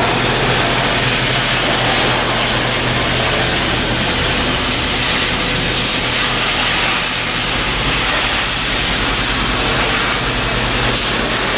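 Steady industrial machinery noise: a loud continuous hiss over a low, engine-like hum, the lowest part of the hum shifting about seven and a half seconds in.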